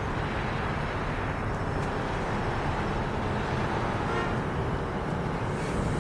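NJ Transit single-level passenger coaches rolling past at close range as the train pulls into the station: a steady rumble of wheels on rail and air rushing by.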